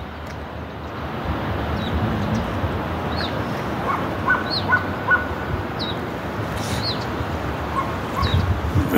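Several short bird chirps, bunched about three to five seconds in and once more near the end, over a steady rushing noise.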